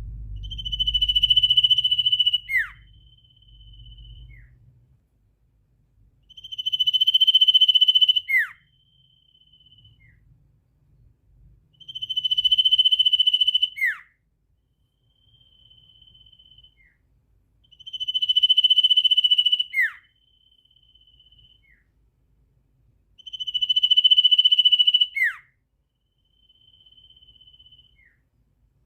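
A bird's buzzing trill, held steady for about two seconds, ending in a sharp downward sweep and followed by a shorter, fainter trill, repeated the same way five times about every six seconds.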